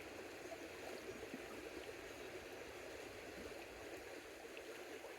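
Faint, steady rush of creek water flowing.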